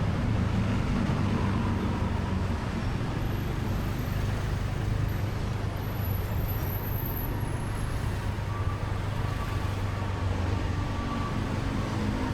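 Motorcycle taxi's engine running steadily under way, heard from the bike amid steady road and traffic noise.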